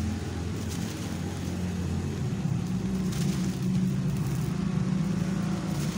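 Road traffic: a motor vehicle's engine running nearby with a steady low hum that shifts higher about two seconds in, over a steady hiss.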